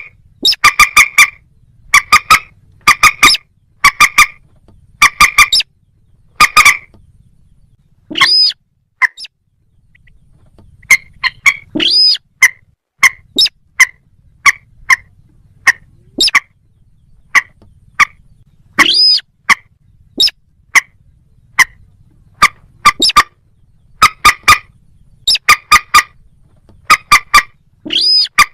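Moorhen and little crake calls: loud, sharp notes repeated in quick groups of two to four, with a longer call sweeping up in pitch every several seconds.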